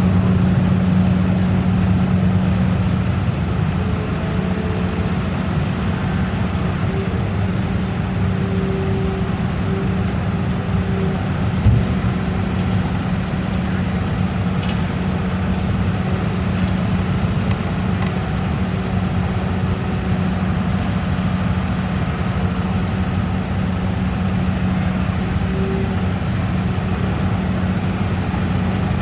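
Heavy diesel engine running steadily under load, with one short knock about twelve seconds in.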